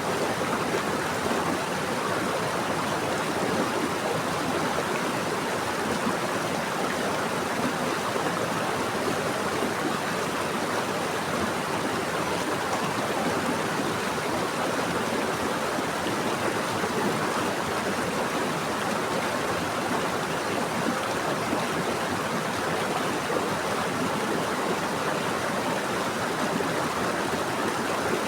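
Running water of a stream or river, a steady rushing flow without breaks.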